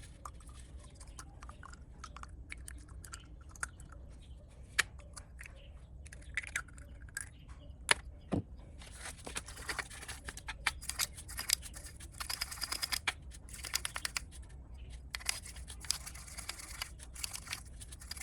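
Scattered clicks and knocks, then a denser spell of scraping and crinkling from about nine seconds in.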